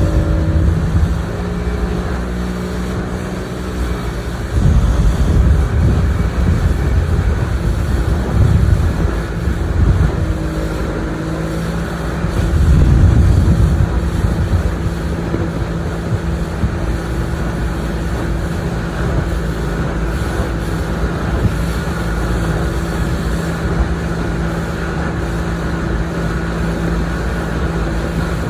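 A motorboat's engine running steadily while under way, with gusts of wind buffeting the microphone now and then.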